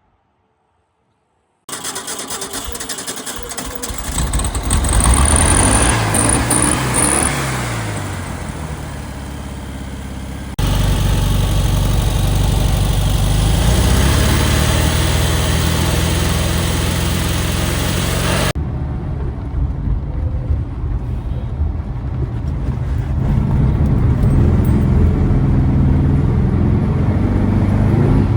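1965 Volkswagen Beetle's air-cooled flat-four engine running as the car drives, revving up and dropping back through the gears. It starts after a short silence, and the sound changes abruptly twice.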